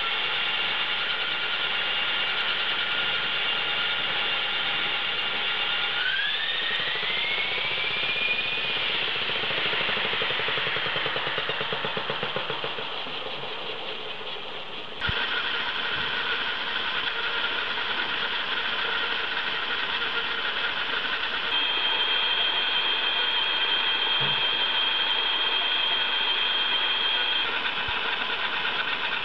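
HK450 TT PRO electric RC helicopter running: the motor, gears and rotors give a steady whine. The pitch climbs about six seconds in and then eases and fades, and halfway through the sound jumps suddenly to another steady whine, with an extra high tone for a few seconds near the end.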